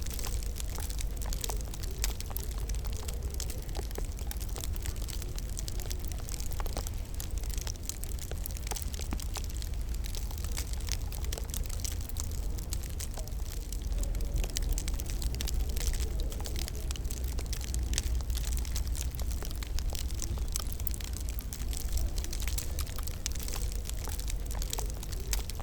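Wood fire crackling in a fireplace: a constant scatter of sharp pops and snaps over a steady low rumble.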